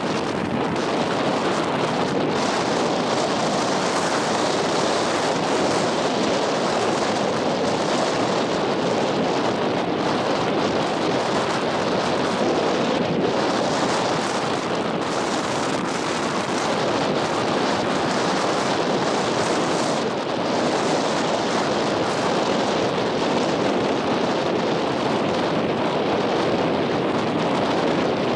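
Strong coastal wind buffeting the microphone: a loud, steady rushing, with the beach surf mixed in underneath.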